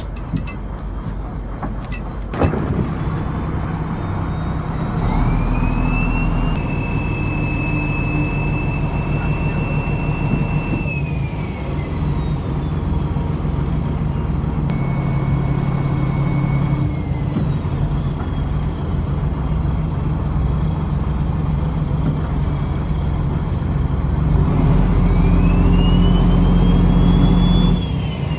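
A trawler's diesel engine running steadily with a sharp knock a couple of seconds in. Three times a high whine rises, holds and falls away as the machinery speeds up and slows, louder and deeper near the end.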